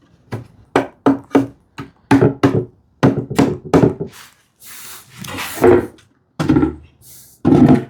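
Pieces of wood being handled and fitted together: a series of knocks and taps on wood, with a brief rubbing slide about halfway through.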